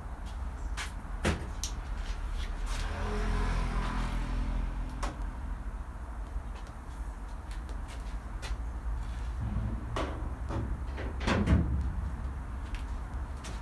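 Scattered knocks and clunks of things being handled in a workshop, a dozen or so, the loudest near the end, over a steady low hum.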